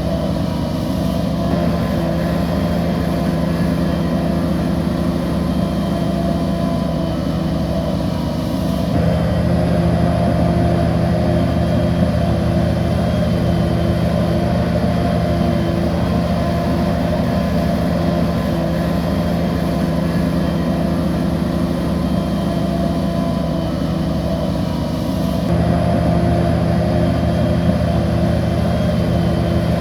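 A heavy diesel engine on a bulldozer running steadily under load. It gets louder and changes pitch about nine seconds in, and again near the end, as the machine works harder.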